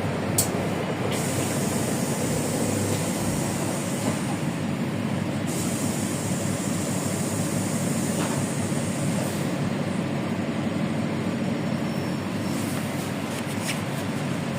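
LiAZ 5292.65 city bus under way with its Yuchai engine, heard from inside the cabin: a steady rumble of engine and road noise, with a few short ticks and rattles.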